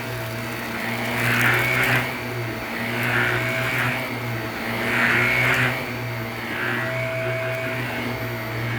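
Shark Navigator upright vacuum cleaner running with a steady motor hum, pushed back and forth over carpet. Each stroke brings a swell of soft crunching hiss, about every two seconds.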